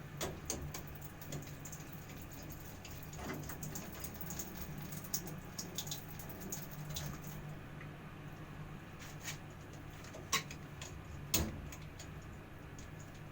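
Scattered light clicks and small knocks, with two sharper knocks near the end, over a steady low hum.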